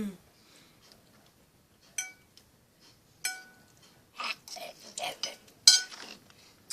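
Cutlery clinking against a plate while eating: two short ringing taps about a second apart, then a quick run of clatters and scrapes with one loud clink.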